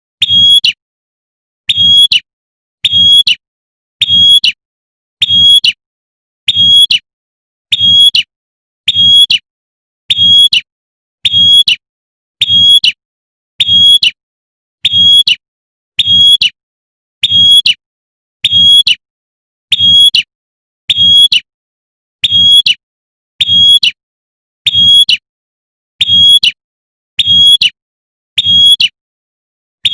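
Female prenjak (prinia) giving its sharp 'tembakan' call, one short, loud, high note burst about every second in a steady, unbroken series, the call used to draw in a male.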